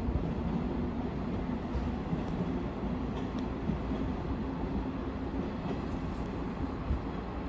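KiHa 189 series diesel multiple unit passing through the station without stopping, a steady rumble of engine and wheels on rail.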